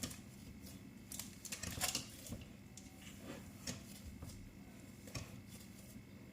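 Faint, scattered small clicks and taps, about six of them, over quiet room tone.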